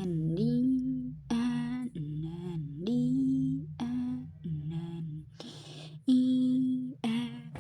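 A voice singing slow, drawn-out notes in short phrases that glide between pitches, over a steady low drone.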